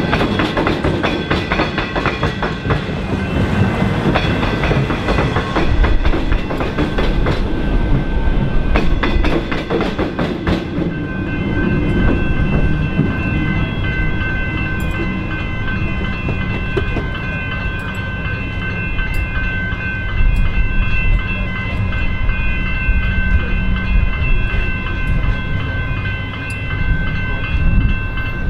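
Metro Trains Melbourne electric suburban train running over the level crossing and the tram rail square, its wheels clattering rapidly over the crossing rails for the first ten seconds or so. After it has passed, the level crossing bells keep ringing steadily.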